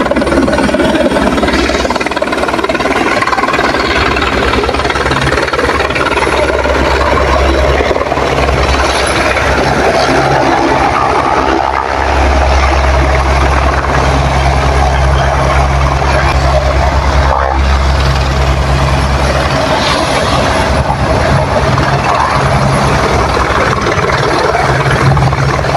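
Helicopter running close by: a loud steady rotor and engine noise with a deep low rumble that grows stronger about twelve seconds in and eases again near twenty seconds, over a faint high whine.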